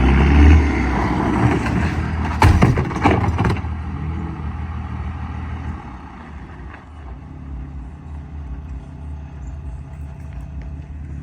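A motor vehicle's engine running, with a few loud knocks and clatter about two to three seconds in, then settling to a quieter, steady low hum.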